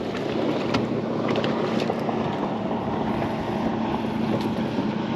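Boat noise in strong wind: a steady motor hum under a continuous rush of wind on the microphone, with a few light knocks.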